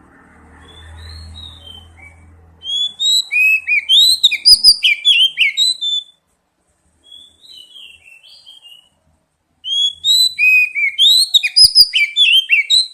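Oriental magpie-robin (kacer) singing in rapid, varied runs of whistles and chirps. A loud bout starts about three seconds in, then comes a softer short phrase, then another loud bout near the end. A faint low hum comes before the song.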